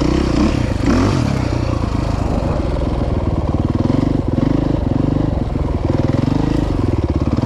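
Dirt bike engine running under throttle on a trail, its pitch rising and falling as the throttle is worked.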